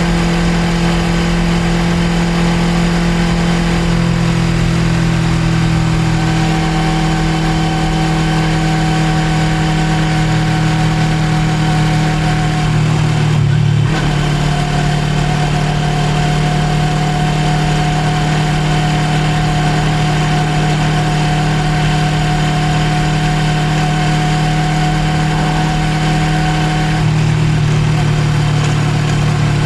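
Suzuki GSX250R's parallel-twin engine running at a steady pitch under a rider-mounted mic, with a brief break about halfway through and a change in tone near the end.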